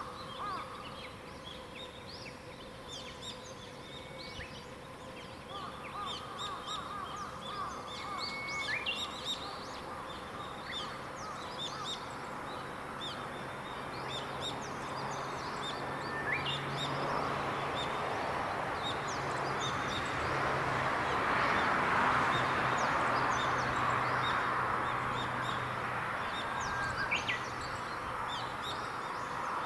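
Morning chorus of wild songbirds, many short chirps and calls overlapping, with a trilling call repeated in the first third. Through the middle a low hum and a broad rush swell up, peak, then fade near the end.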